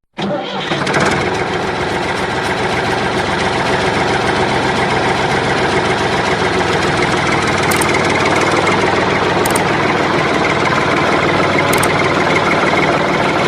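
A tractor engine running steadily. It starts abruptly and settles within about a second.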